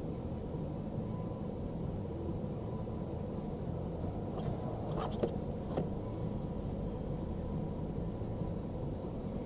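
Car idling, heard from inside its cabin as a steady low rumble, with a few short clicks about halfway through.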